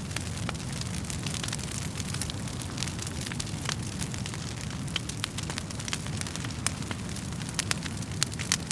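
Wood fire burning in a fireplace: a steady low rumble of the flames with irregular, sharp crackles and pops of the burning logs.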